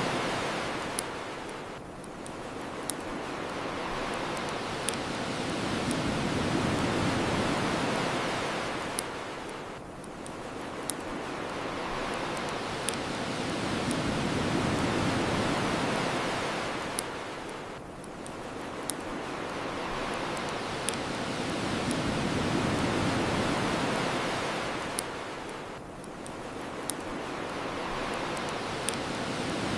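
Ocean waves washing on the shore in slow swells about every eight seconds, with the sharp pops of a crackling bonfire over them.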